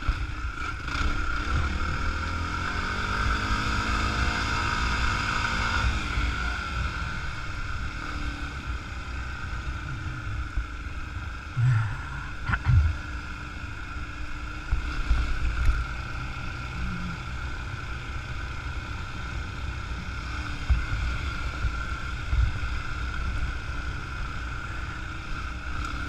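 Dirt bike engine running as it rides a rough dirt trail, rising in pitch as it accelerates a few seconds in, over a steady rumble of wind and ground noise. A few short knocks from bumps come around the middle.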